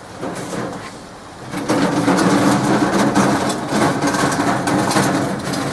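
Hoover Logic washing machine running in its rinse: a louder steady motor hum with water noise comes in a little under two seconds in.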